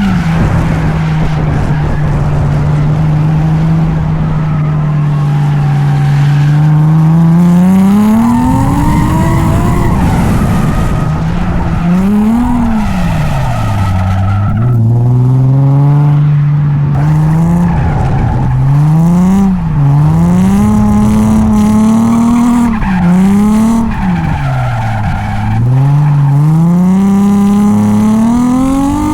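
Drift car's engine on a drift run: held at steady revs for several seconds, then revved up, then rising and falling repeatedly with throttle and clutch, over tyre skid noise.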